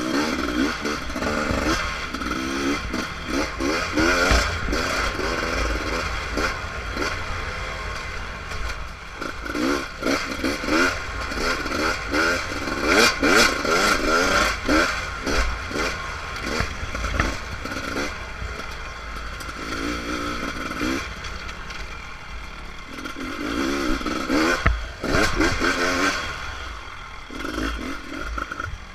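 Beta RR300 single-cylinder two-stroke dirt bike engine being ridden, its pitch rising and falling again and again with the throttle, with scattered knocks and clatter from the bike over rough ground.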